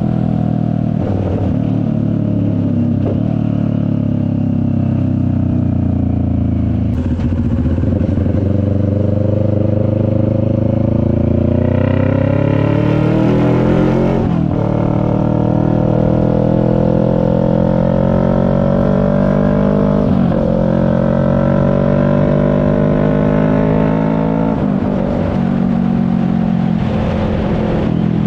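CFMoto 400NK's 400 cc parallel-twin engine under way: the note sinks for the first several seconds, then climbs in pitch through the gears, dropping briefly with each of three upshifts about six seconds apart.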